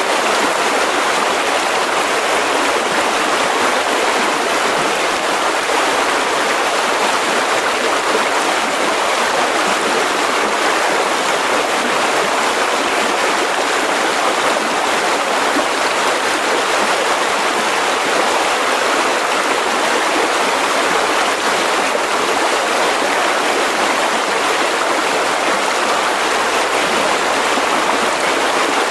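Mountain river rushing steadily over rocks, a constant full-bodied water noise.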